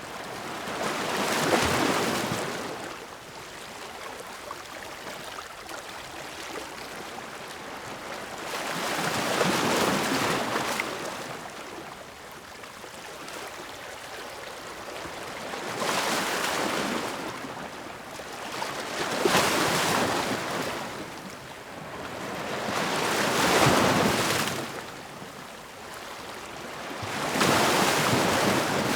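Ocean waves breaking and washing up on the shore, the surf swelling and falling back about six times, with a quieter hiss of water between the breakers.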